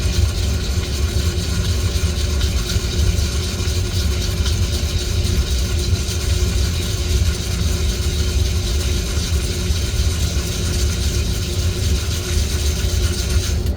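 Coffee beans rattling continuously as they are stirred during roasting, over a steady low hum.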